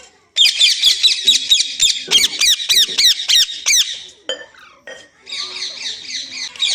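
Pet rose-ringed parakeet screeching in rapid, repeated harsh calls for about three and a half seconds, then, after a short pause, a second burst of calls near the end.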